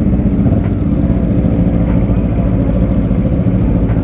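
Yamaha R3 motorcycle's parallel-twin engine running steadily under the rider.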